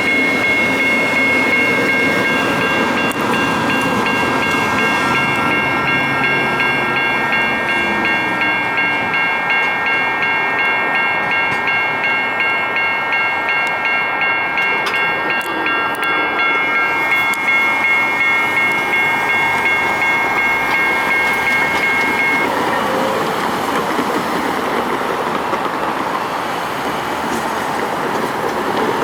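Light rail train passing over a grade crossing, wheels rumbling and clattering on the rails, while the crossing's warning bell rings steadily at a regular rate. The bell stops suddenly about three-quarters of the way through, and the train's rumble carries on.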